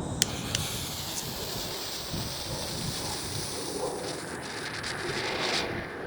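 A couple of sharp clicks near the start, then a lit smoke ball hissing steadily as it burns; the hiss stops shortly before the end. Wind buffets the microphone underneath.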